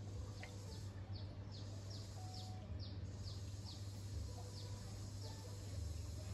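A bird calling a run of short, high chirps, each falling in pitch, about three a second, over a faint low steady hum.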